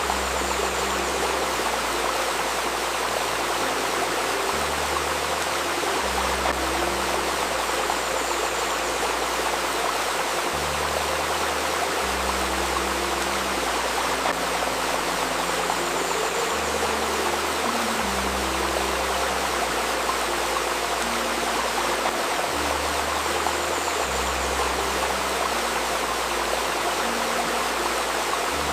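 Steady babbling of a river stream, with soft, low sustained music notes underneath that change every couple of seconds, layered with a 528 Hz healing tone.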